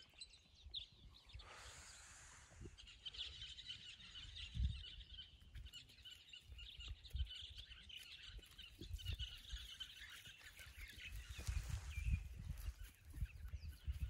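Small birds chirping and twittering on and off in the background, many short high calls overlapping, with scattered low thumps and rumbles underneath.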